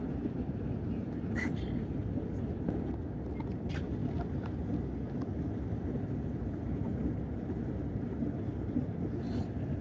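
Steady low rumble of airliner cabin noise in flight, with a few faint clicks.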